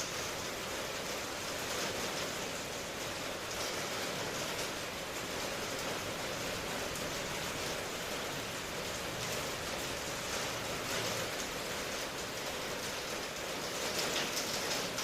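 Steady rainfall, an even hiss with scattered individual drops standing out.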